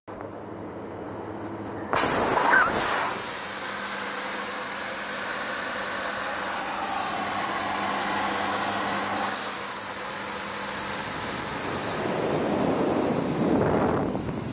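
Shop compressed air hissing steadily and loudly, switching on abruptly about two seconds in, during a tyre puncture repair; it is most likely a pneumatic tool such as a buffer or a hose in use.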